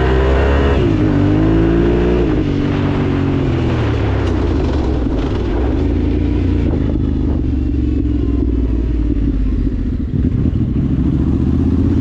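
Vehicle engine under way, heard from on board. Its pitch rises, dips and rises again in the first two seconds, eases down, then runs steadily, with a brief drop in loudness about ten seconds in.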